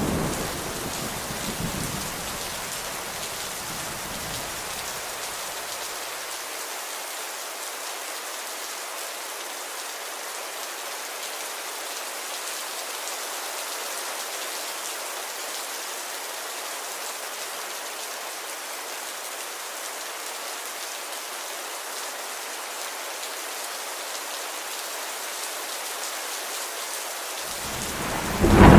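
Steady rain falling, an even hiss. A rumble of thunder dies away in the first couple of seconds, and another thunderclap begins to rumble right at the end.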